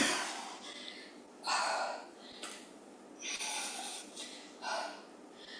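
A woman breathing hard through mouth and nose while exercising: four forceful exhales, the first sharp and loudest at the start, the rest spaced about a second and a half apart, in time with squat-and-reach repetitions.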